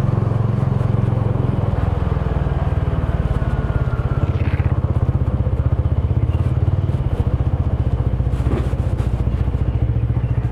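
Small motorbike engine running steadily at low revs under the rider, its pitch shifting a little about two seconds in and again around seven seconds.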